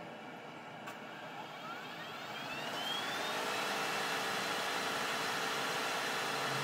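Smart ForTwo EQ's electric air-conditioning compressor running while the system is recharged with refrigerant: a whine rises in pitch about a second or two in and the hum grows louder, then runs steady.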